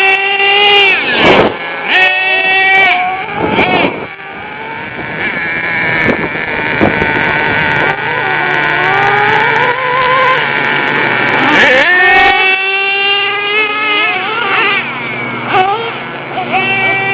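Small two-stroke nitro RC truck engines running and revving, their high-pitched whine rising and falling again and again as the trucks accelerate and back off, with a second engine at times heard at once.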